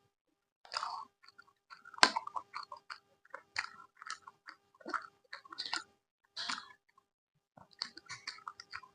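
Close-miked chewing with wet mouth sounds and crisp crunches in irregular bursts, the loudest a sharp crunch about two seconds in.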